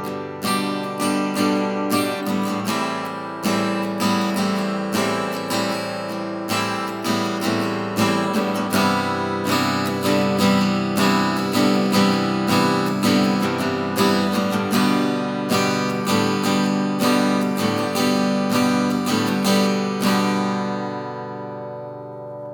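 Early-1970s S.Yairi YD-303 acoustic guitar strummed in a steady rhythm, full chords ringing. The last chord, about 20 seconds in, is left to ring out and fade.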